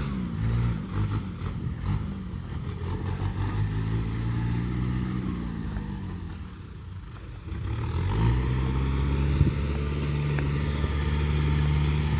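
A vehicle engine revving up and down, easing off to a low, quieter run about six seconds in, then picking up again about eight seconds in and running steadily.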